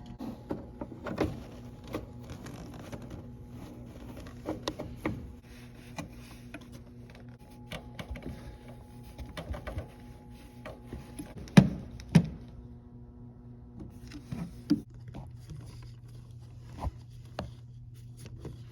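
Scattered clicks and knocks of car parts and hand tools being handled during clutch master cylinder work, with two louder knocks a little past the middle, over a steady low hum.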